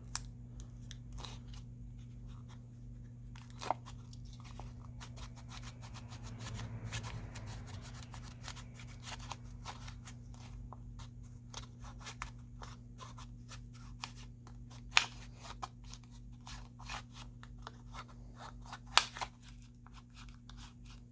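Thin plastic card prying a phone battery off its alcohol-softened adhesive: scattered small clicks, crackles and scrapes, with a few sharper snaps, over a steady low hum.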